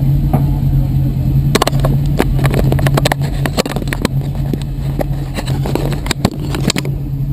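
A car engine idling with a steady low hum. Over it come many short clicks and knocks as someone moves about in the race car's cockpit.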